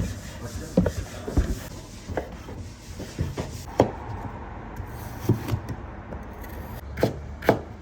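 Food preparation on a wooden surface: rubbing and rustling with irregular sharp knocks, the loudest two close together near the end.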